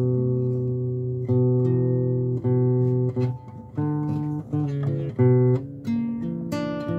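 Guitar playing ringing plucked chords and low bass notes that change about every second, with no singing: the instrumental lead-in before the song's first line.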